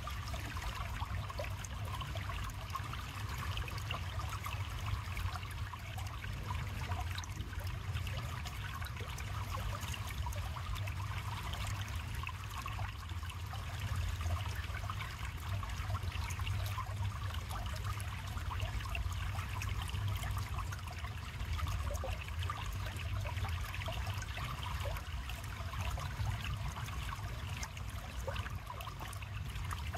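River water flowing steadily: a continuous babble of small splashes with a low rumble underneath.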